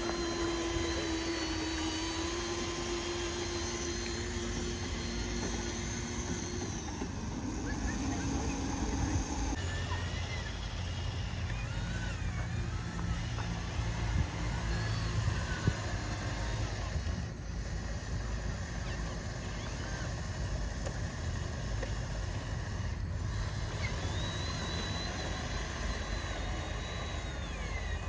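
Small electric motors and gearboxes of RC construction trucks running with a steady whine, which drops in pitch about 7 s in and gives way to a lower, rougher rumble from about 10 s on.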